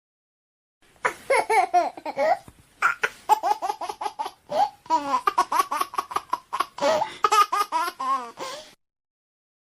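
Baby laughing and giggling in quick bursts, starting about a second in and stopping shortly before the end.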